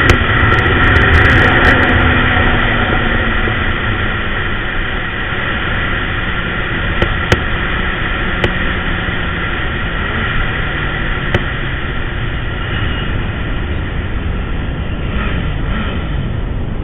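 Kawasaki Z800's inline-four engine running under way on the road, its note easing down over the first couple of seconds and then holding steady, with wind rumble on the action camera's microphone.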